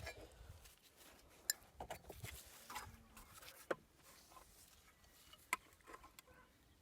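A few sparse, light taps and clicks, about one a second, against a quiet background.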